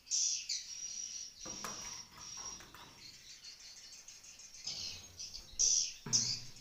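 Swiftlets chirping and twittering: loud bursts of high calls at the start and again near the end, with a thin high whistle in between. A brief lower rustle comes about one and a half seconds in.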